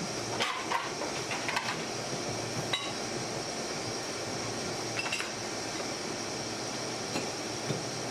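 Several light scattered knocks and clinks of hands and tools working hard candy on a bench, over a steady hum and hiss of workshop equipment.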